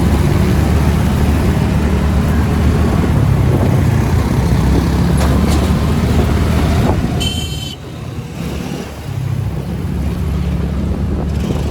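Wind buffeting and road noise from riding a TVS Ntorq 125 scooter, a loud steady low rumble. A vehicle horn beeps briefly about seven seconds in, and the rushing noise drops for a moment afterwards before building again.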